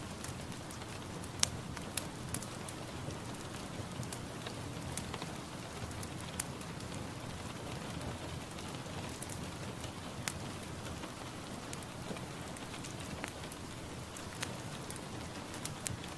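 Steady rain falling, with scattered louder drops hitting close by as sharp ticks.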